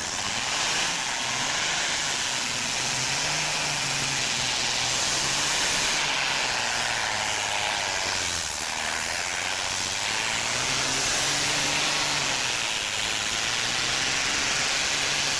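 Pulling tractor's engine running hard through a pull, a loud continuous roar whose pitch slowly rises and falls.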